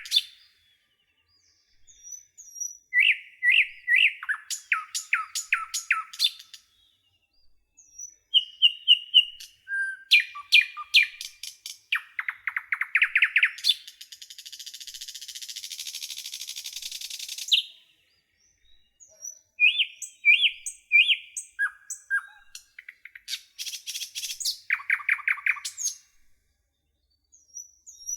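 Songbirds singing in separate phrases of quick high chirps and trills, with dead-silent pauses between phrases. About halfway through comes a buzzy, hissing trill lasting about three seconds.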